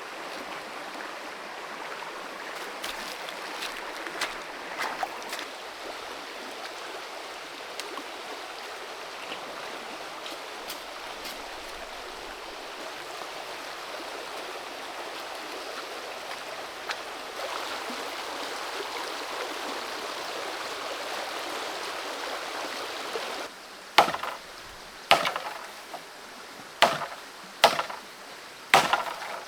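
Steady rushing of a small forest creek. Near the end, a run of six sharp knocks, about one a second, louder than the water.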